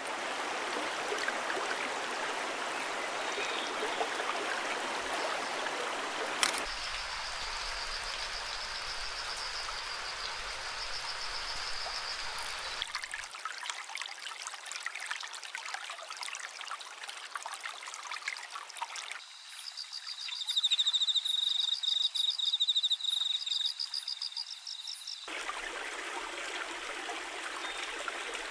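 Running stream water in several short clips joined with abrupt cuts. In two of the clips a high, rapid pulsing trill sounds over the water, loudest in the later one.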